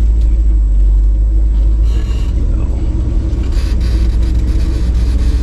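Old off-road tow truck's engine running at low speed, a steady deep rumble, as the truck crawls a tight rutted trail.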